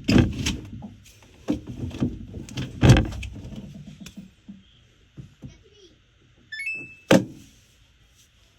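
Clunks and knocks of a washing machine door and drum being handled, then a short rising run of electronic beeps from the control panel, followed by one sharp knock.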